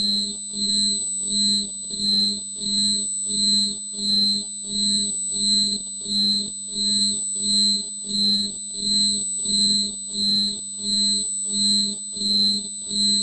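Very loud electronic noise: a steady shrill high-pitched tone, with a lower buzzing tone pulsing on and off about one and a half times a second.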